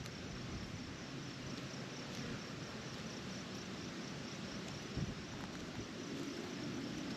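Steady outdoor ambience of insects chirping over an even hiss, with a single soft knock about five seconds in.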